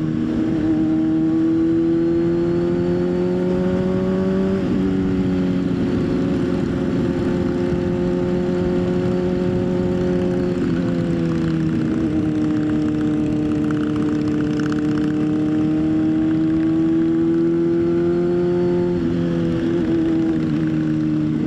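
Motorcycle engine running steadily while riding, loud and close. Its pitch climbs slowly and then drops suddenly three times, with a low rush of wind underneath.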